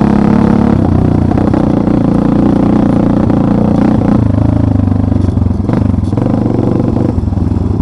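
Off-road vehicle engine running steadily on a rough forest track, its note dropping lower about four seconds in, with some rattling from the vehicle.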